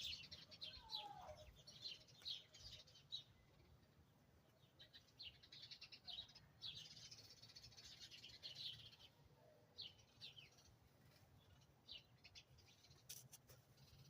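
Faint high-pitched chirping in short, irregular runs, with quiet gaps between, over an otherwise near-silent background.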